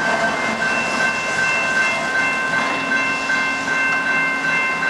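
A Canadian Pacific GE ES44AC diesel locomotive, the train's rear remote unit, rolling past at a level crossing, its engine and wheels running on the rails as it moves away. The crossing bell rings steadily throughout.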